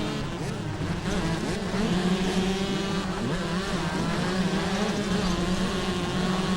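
Several motocross bikes' engines revving at once, many overlapping buzzing engine notes rising and falling in pitch as the riders work the throttles.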